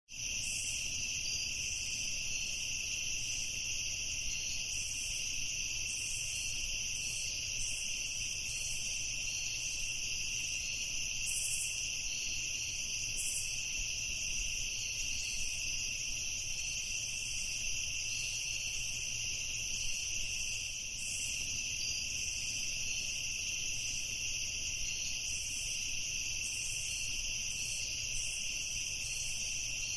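Night insect chorus: crickets chirring steadily in high, unbroken bands, with fainter pulsing insect calls above them.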